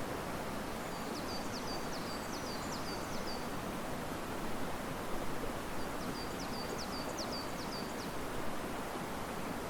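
Steady rush of river water mixed with wind stirring the leaves of riverside trees. A small bird sings two short phrases of quick, repeated high notes, about a second in and again about six seconds in.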